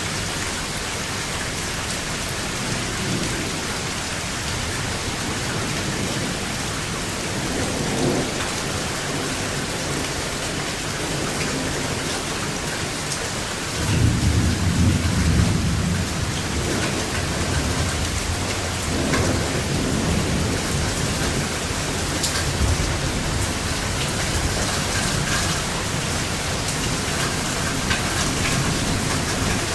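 Steady heavy rain with rolling thunder: low rumbles build and fade, and about halfway through a loud clap of thunder breaks in suddenly and rumbles on for a few seconds.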